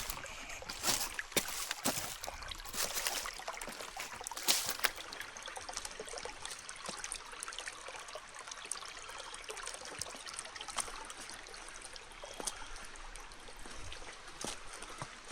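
A creek trickling and running steadily, with the crunch of footsteps through dry leaves in the first few seconds.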